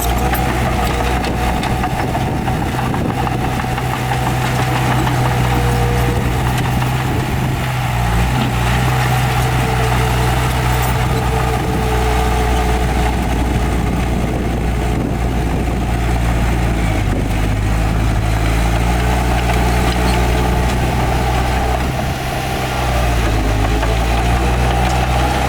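Heavy diesel engine of earthmoving machinery running steadily, its pitch shifting a few times and dipping briefly about three-quarters of the way through.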